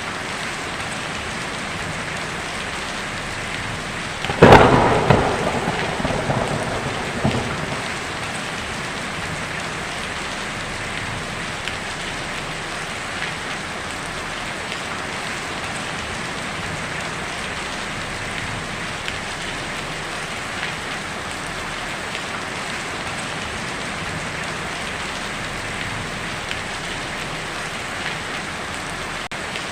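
Heavy rain drumming steadily on a tin roof. About four seconds in, a sharp, loud thunderclap breaks out and rolls off into a fading rumble over the next three seconds.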